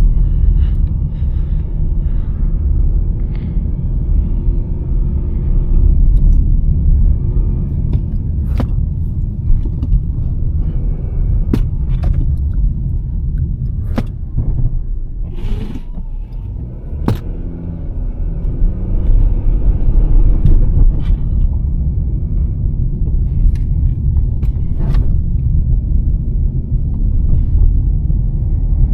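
A 2023 Nissan Sentra driving on a snowy road: a steady low rumble of road and engine noise, dipping slightly about halfway through. A few sharp clicks come at irregular moments over it.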